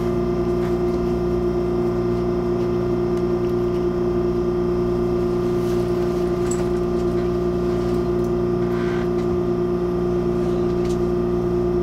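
Steady electrical hum inside the passenger cabin of an MTR Airport Express CAF train, with one strong constant tone and several fainter ones and a few faint ticks.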